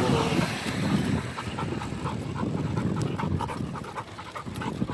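A dog panting rapidly, about three to four breaths a second, as it runs alongside.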